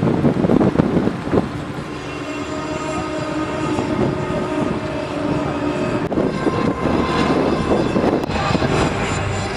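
Loud, sustained droning tones from an outdoor light show's soundtrack over loudspeakers, with wind gusting on the microphone near the start and again later on.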